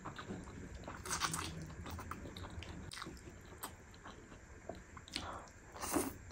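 Close-miked eating sounds: chewing and slurping saucy black bean noodles and fried egg, with scattered short wet clicks and smacks of the mouth.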